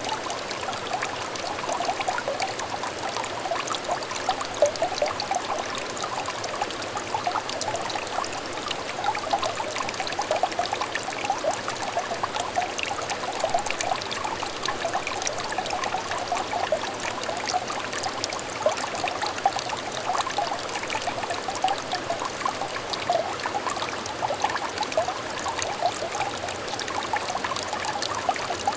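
Small stream trickling and babbling steadily over stones, a continuous run of light, bubbly splashes.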